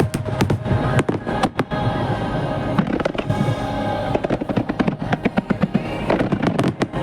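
Aerial fireworks shells bursting in rapid, dense succession, with sharp bangs crowding together near the start and again near the end, over music playing throughout.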